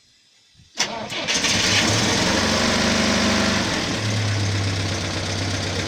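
GAZ Volga's ZMZ-24D four-cylinder petrol engine cranked by the starter, catching about a second in and then running steadily at idle.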